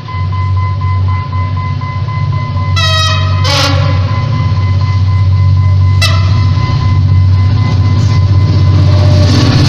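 Train running with a heavy, steady rumble that grows a little louder toward the end. A short horn blast sounds about three seconds in.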